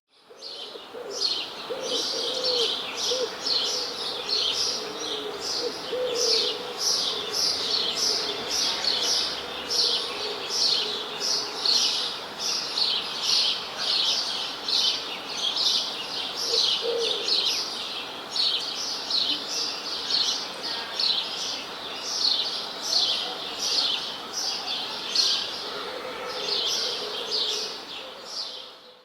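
Songbirds chirping continuously: a dense, rapid run of short high downward chirps, several a second, with a few lower calls mixed in. The sound fades in at the start and fades out near the end.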